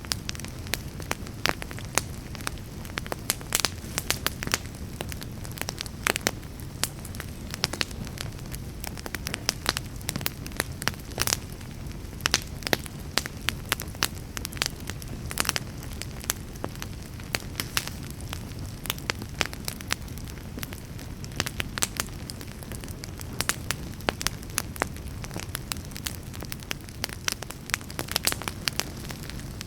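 Wood fire burning in a fireplace: a steady low rumble of flames with frequent irregular pops and crackles of burning logs.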